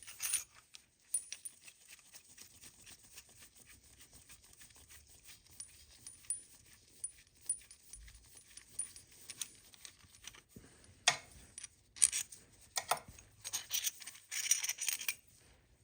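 Light metallic clicks and rattles of a cam bearing puller being loosened and taken apart by hand. There is a sharper clink about eleven seconds in and a cluster of clinks near the end.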